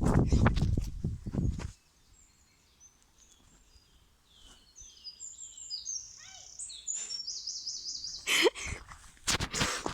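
Loud rustling and handling noise, then a small songbird sings a run of high, varied notes ending in a fast trill. A sharp rustle comes about eight seconds in, and more rustling near the end.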